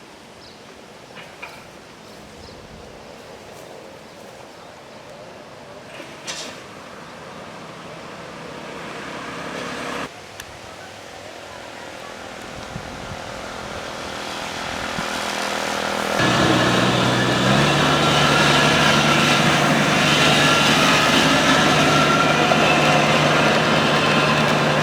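Engine of a Kubota combine harvester growing louder as the machine comes closer, dropping suddenly about ten seconds in and building again, then jumping to a loud, steady run close by for the last third.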